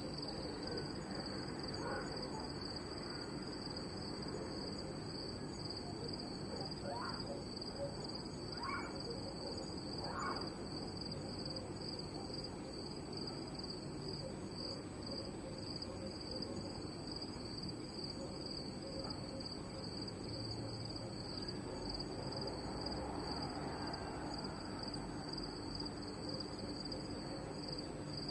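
Night chorus of crickets chirping continuously in a steady, high, pulsing trill. A few short calls from another animal rise above it early on and around the ten-second mark.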